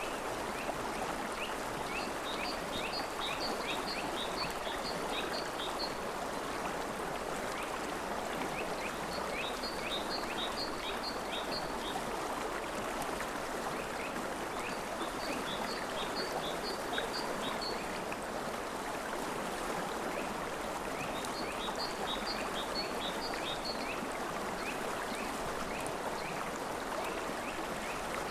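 River water flowing steadily. Over it, series of short, high chirping notes repeat in runs of several notes, a few seconds apart.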